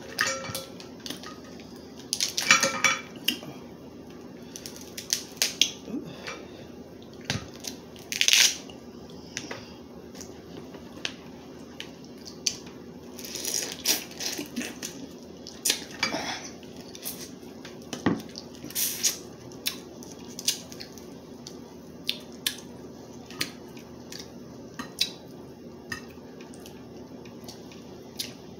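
Crab legs being cracked and picked apart over a plate: irregular sharp cracks and clicks of shell, with clatter against the dish, under a faint steady hum.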